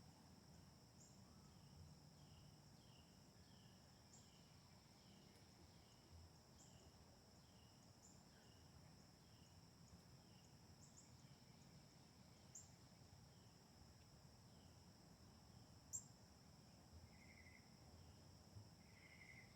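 Faint backyard nature ambience: a steady high-pitched insect drone. Over it come short high chirps every second or two and a run of softer, evenly repeated bird notes about two a second.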